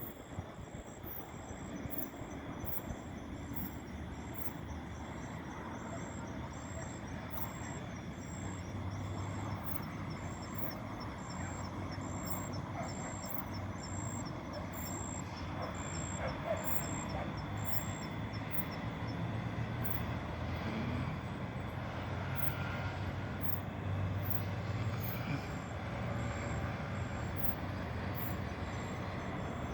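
Evening outdoor ambience: insects chirping in an even rhythm, about one high pulse every half second, over a low steady rumble.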